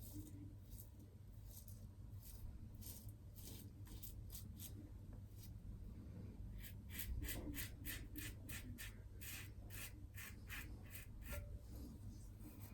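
Double-edge safety razor blade scraping through about a day's stubble in short, faint strokes, which quicken to about four a second for a few seconds around the middle.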